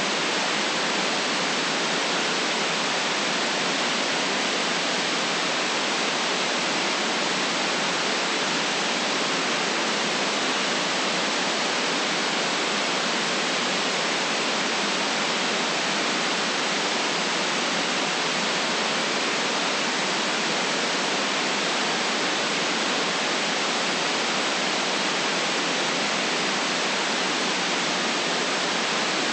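Steady white noise, an even, unchanging hiss with little bass or extreme treble and no other events.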